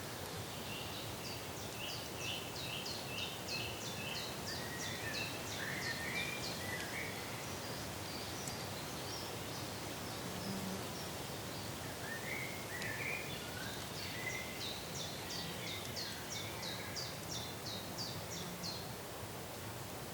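A bird singing two long runs of rapid, high, downward-sliding notes, several a second, mixed with lower warbling notes, over a steady outdoor hiss.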